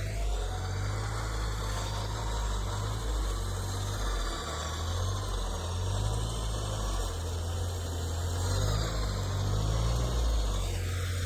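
Off-road vehicle's engine running steadily with a deep rumble.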